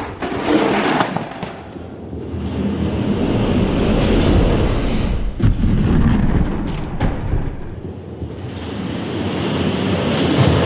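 Die-cast toy monster trucks rolling down a racing track: a steady rumble, with a clatter in the first second or so and a few sharp clicks around the middle.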